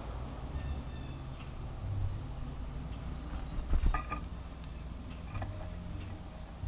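A few short bird chirps at a feeder, clustered about halfway through and again near the end, over a low steady outdoor rumble with one soft knock in the middle.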